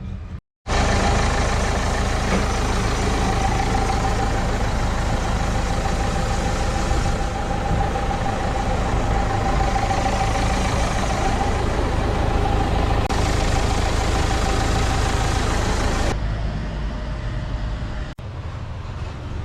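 A motor vehicle engine running steadily, with a steady whine over it. The sound becomes noticeably quieter about sixteen seconds in.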